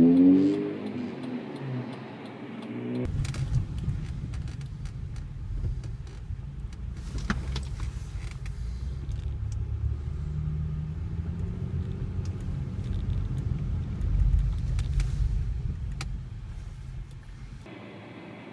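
Road rumble inside a 2005 Honda Pilot's cabin while driving, with scattered light clicks and knocks. The rumble starts suddenly about three seconds in and cuts off suddenly near the end.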